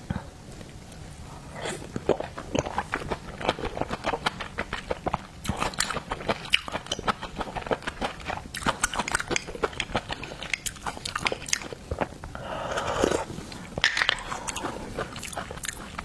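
Close-miked eating of seafood: biting and chewing with many sharp, crunchy clicks. A longer rush of noise comes about twelve and a half seconds in.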